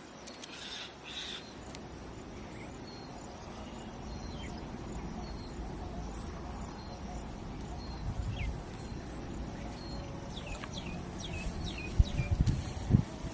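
Outdoor ambience with small birds chirping: scattered short high chirps, then a quick run of falling chirps after about ten seconds. A few low thumps near the end are the loudest sounds.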